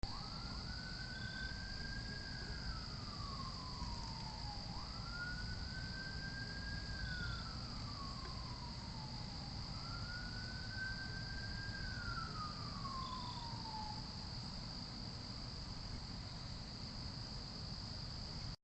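A siren wailing three times, each wail rising quickly, holding, then sliding down, over a steady high-pitched trill of night insects.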